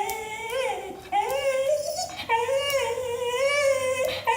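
Basenji-Jindo mix dog whining in three long, wavering, high-pitched notes that rise slightly as they go, vocalising in response to the Speak command.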